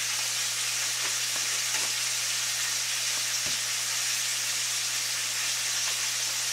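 Chicken frying in hot oil: a steady sizzle, with a low steady hum underneath.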